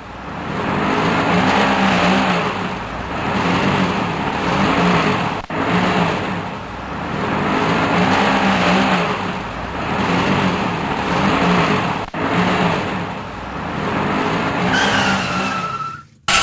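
Car engine sound effect, swelling and fading about every three seconds with rising and falling pitch, broken by a couple of abrupt splices and cut off just before the end.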